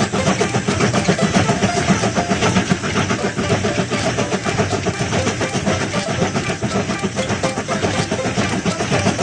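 Cartoon train sound effect: a steady, rapid chugging rumble of a train running along the track.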